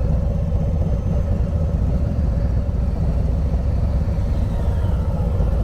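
Motorcycle engine running at low revs with a steady low rumble.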